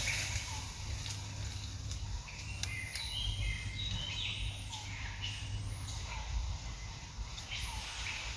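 Birds chirping and calling: short high notes and a few quick gliding calls, over a steady low rumble, with a few light clicks.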